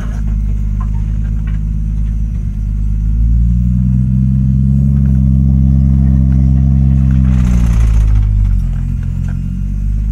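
Turbocharged Toyota 1JZ inline-six in a 1936 Morris 8, heard from inside the cabin while driving. The engine runs low, then climbs in pitch about a third of the way in and holds. A brief hiss comes as it falls back off the throttle about three-quarters of the way through.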